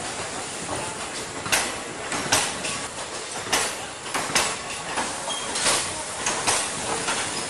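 Express train coaches running past at speed: wheels clattering over rail joints in sharp, irregular knocks about once a second over a steady rushing noise.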